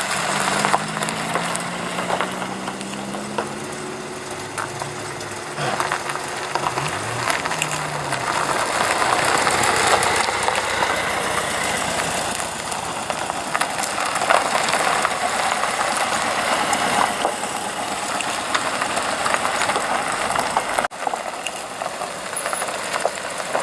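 Classic car engines running as cars drive slowly past at low speed. One engine holds a steady note at first, and about six seconds in another engine's pitch briefly rises and falls.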